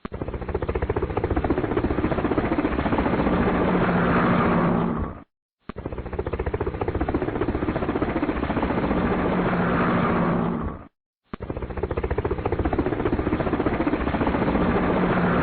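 Helicopter sound effect: a rapid, steady rotor chop over an engine drone. It plays three times over, each pass about five seconds long and ending in a short fade and a brief silence.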